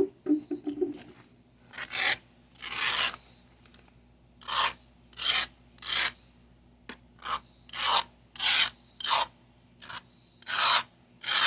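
A scraper scraping caked grass off the underside of a Toro 22-inch mower deck, in about ten short strokes at an uneven pace.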